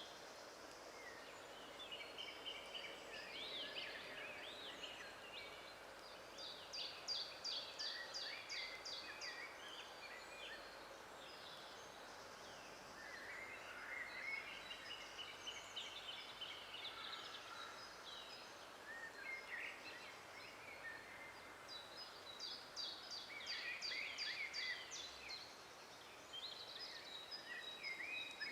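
Several songbirds singing in a forest over a faint steady hiss. Warbling phrases come and go throughout, and twice a bird gives a fast run of about eight repeated high notes.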